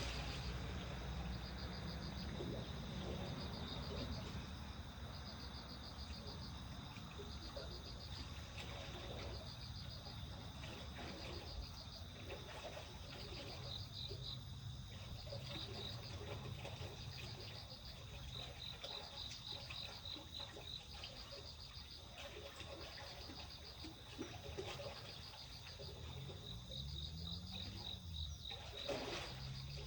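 A bird singing: short, high trills repeated about once a second, over a low steady rumble.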